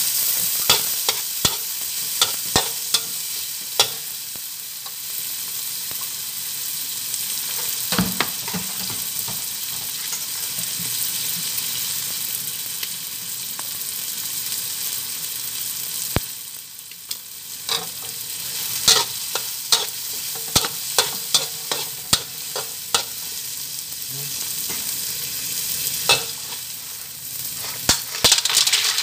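Chopped tomato, onion and garlic sizzling in hot oil in a wok, stirred with a metal spatula that clicks and scrapes against the pan again and again. Near the end, mussels in their shells are tipped in from a bowl and clatter into the wok.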